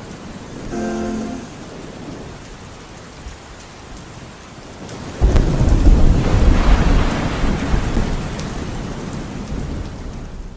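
Steady rain, then about five seconds in a sudden loud clap of thunder that rolls on as a long deep rumble, fading toward the end. A brief held sung note sounds faintly about a second in.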